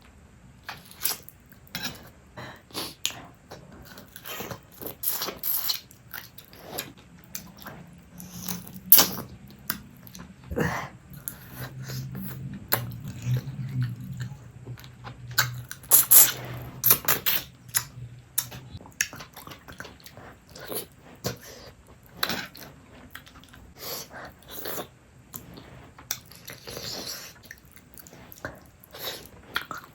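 Close-up eating sounds of a fish head being chewed and sucked: a steady stream of short, wet clicks, smacks and crunches.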